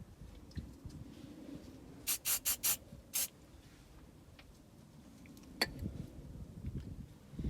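Aerosol spray can giving short hissing squirts: four in quick succession about two seconds in, then one more a moment later.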